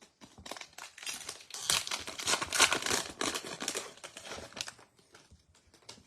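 Plastic wrapper of a 2022 Topps Heritage baseball card pack crinkling as it is torn open: a dense run of crackles, loudest in the middle, thinning to a few soft rustles near the end.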